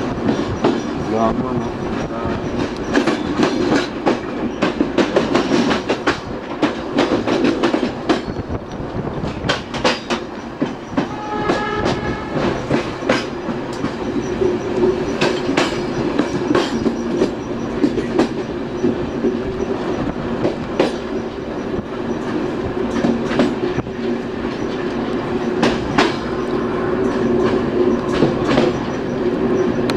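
Electric commuter train (TCDD E14000 EMU) running, heard from inside the rear cab: wheels click and clatter over rail joints and points over a steady hum. A short high-pitched tone sounds about 11 seconds in.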